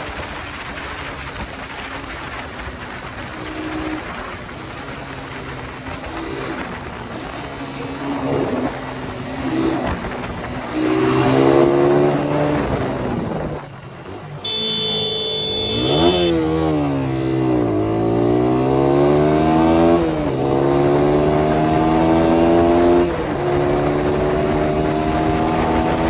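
Suzuki Satria FU 150's single-cylinder four-stroke engine pulling through the gears, its pitch climbing repeatedly and falling back at each shift. The engine drops off briefly about halfway through, then revs up again.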